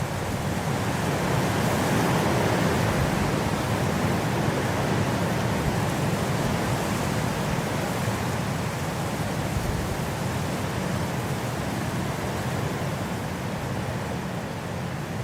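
Steady gusting wind, a full rushing noise that swells about two seconds in and slowly eases off.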